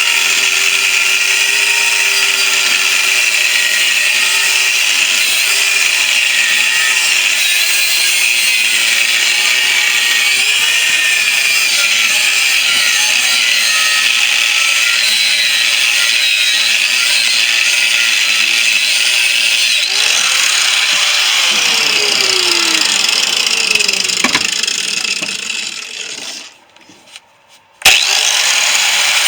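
Angle grinder with an abrasive cut-off disc cutting through the steel shell of a refrigerator compressor, its pitch wavering as the disc loads up in the cut. About 20 seconds in the motor winds down with a falling whine and goes nearly quiet, then the grinding starts again abruptly near the end.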